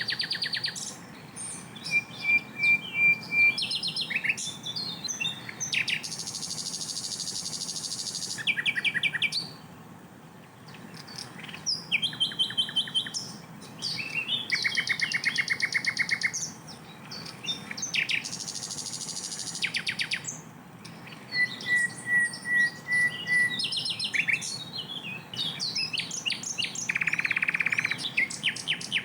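Sikatan londo flycatcher singing a fast, varied song: rapid trills, buzzy rattles and strings of repeated high whistled notes, phrase after phrase with only short pauses.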